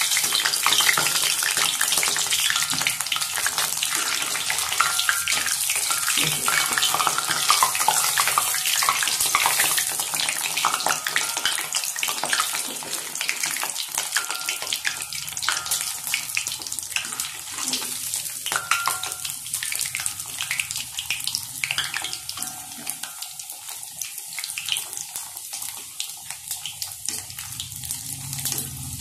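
Vermicelli-coated potato balls frying in oil on a low flame: a steady sizzle full of fine crackling that slowly quietens.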